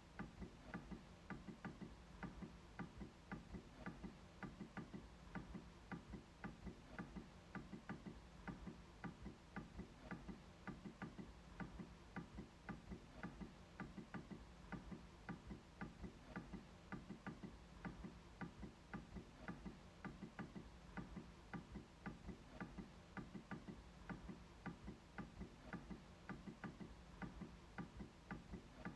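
MacBook trackpad being clicked over and over: a steady run of faint, quick clicks, a few each second.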